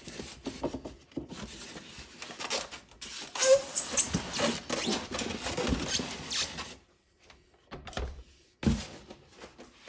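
Packaging being handled as a model truck is lifted out of its box: rustling and scraping of cardboard and styrofoam, loudest midway, with a couple of short bumps near the end.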